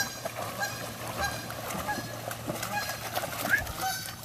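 Geese honking: a run of many short honks, overlapping and repeated.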